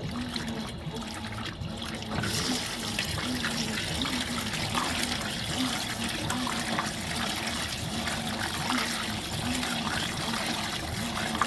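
Fisher & Paykel MW059 top-loading washing machine filling its tub, water running in steadily and getting louder about two seconds in.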